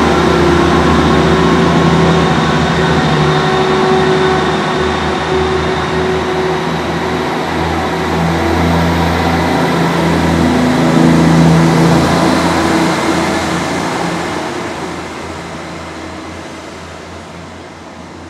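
Great Western Railway diesel multiple unit pulling out of the station, its engines running loud and steady. The sound fades away over the last several seconds as the train leaves.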